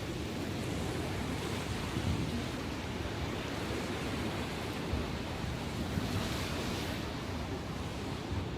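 Ocean waves washing ashore in a steady surge, rising and falling gently every few seconds, with wind on the microphone.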